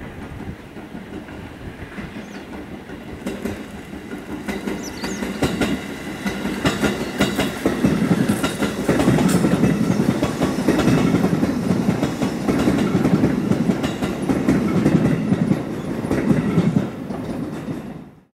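E531 series electric multiple unit passing on the rails, its wheels clicking over rail joints. It grows louder over the first several seconds, stays loud for most of the pass, and cuts off suddenly near the end.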